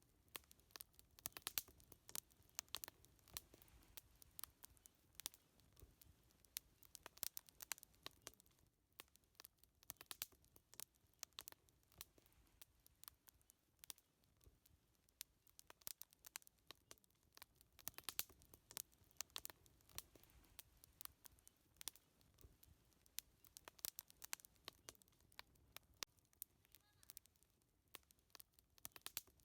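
Faint wood fire crackling, with many irregular sharp pops and snaps.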